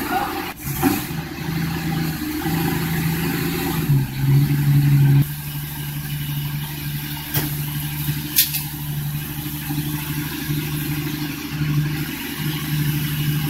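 1967 Ford Mustang engine idling steadily after 39 years unstarted, with a short rise in engine level about four seconds in and a couple of brief clicks.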